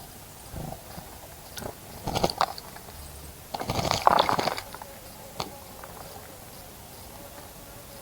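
Water splashing in a bird bath as a small bird bathes: a short burst of splashing about two seconds in and a longer, louder one at about three and a half to four and a half seconds, with a few single flicks of water between.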